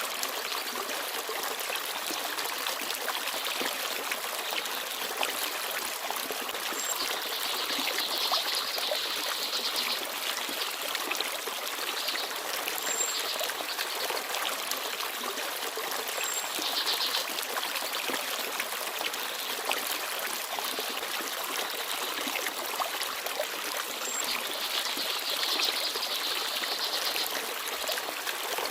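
Small forest stream babbling steadily over stones, with a few brief high chirps from small birds now and then.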